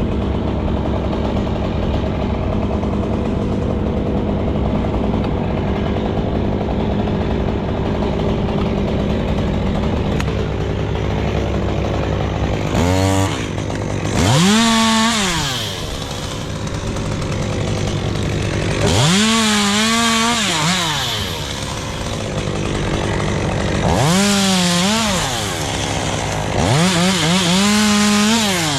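A chainsaw running steadily at idle, then revved up and back down four times in the second half, each rev rising in pitch and falling away.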